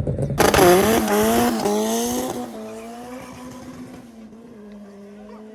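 Drag race car launching hard with a sudden loud burst, then its engine accelerating through several gear changes, the pitch climbing and dropping with each shift, before fading as the car pulls away.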